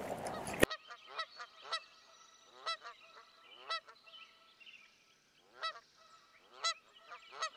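A loud rushing noise cuts off abruptly less than a second in. Then comes a series of short bird calls, each a brief pitched note, irregularly spaced, with a pause of about two seconds in the middle.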